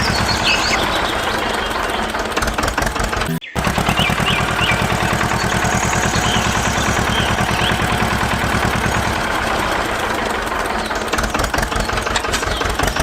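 Small engine of a homemade mini tractor running with a fast, even knocking beat, cutting out briefly a little over three seconds in and then carrying on.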